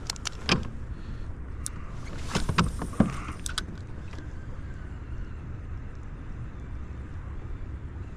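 Several sharp knocks and clicks of gear being handled aboard a plastic kayak, bunched in the first few seconds, over a steady low rumble that continues alone afterwards.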